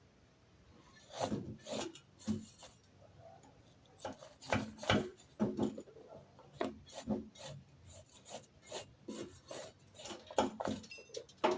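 Wire brush scrubbing slag off a fresh E6013 fillet weld on steel plate, in short, irregular strokes.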